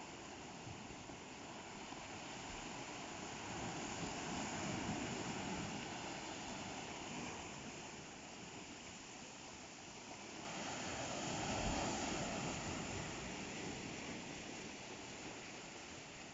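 Ocean surf: waves breaking and washing up the shore, a steady rush that swells twice, once about five seconds in and again at about twelve seconds.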